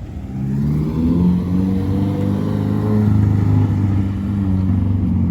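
Car engine revving hard: its pitch climbs about half a second in, holds high for a few seconds with a brief dip near four seconds, and rises again.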